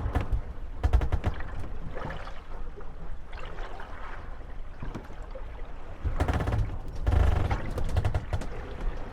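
Moored gondolas rocking on the swell, knocking and creaking against each other, with water sloshing around the hulls. The knocks come in rattling clusters near the start, about a second in, and again around six to seven seconds, with low thuds under them.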